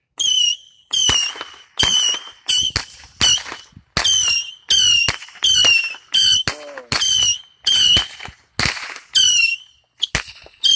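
Saturn 25-shot firework barrage firing a rapid string of about fifteen shots, roughly one every half second to second. Each shot is a sharp pop followed by a brief whistle that dips slightly in pitch.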